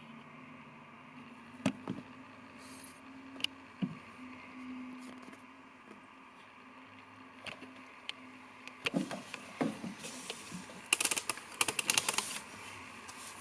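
Low steady hum with a few soft clicks, then a burst of rustling and scratching handling noises from about nine seconds in to near the end.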